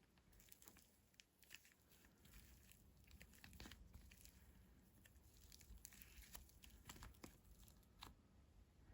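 Faint sticky clicks and crackles of slime being squished and stretched by hand, in many small irregular pops.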